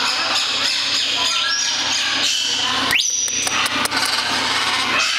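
Parrot giving a few short squeaks and then a sharp rising whistle that holds a high note briefly, followed by a few sharp clicks, over a steady rasping background noise.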